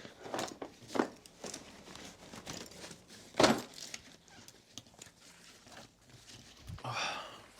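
Tools and a toolbox being handled: scattered knocks and rustles, with one sharp, loud knock about three and a half seconds in.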